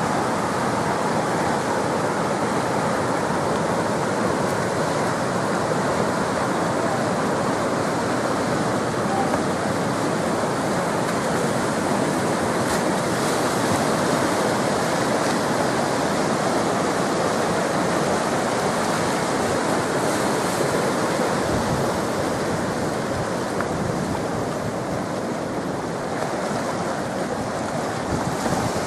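Whitewater rapids of a man-made whitewater channel, rushing steadily without let-up.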